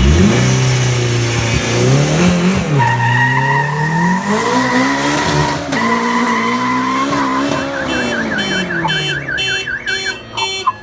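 A car alarm siren cycling through its tones: a steady high tone, then a fast warble, then rapid repeating chirps near the end. Under it, an engine-like sound rises and falls in pitch through the first eight seconds or so.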